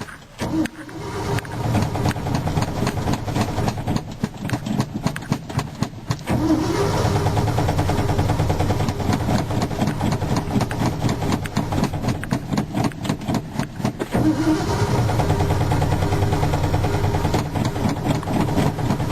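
1987 Ford F-350's engine being cranked over by the starter on a cold start after sitting all winter, slow to catch. The cranking goes on in long stretches, with brief breaks about six and fourteen seconds in, each followed by the starter spinning back up.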